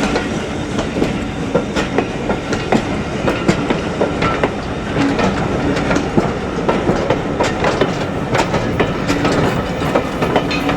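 A train rolling past, its wheels clicking over the rail joints in a steady run of clacks.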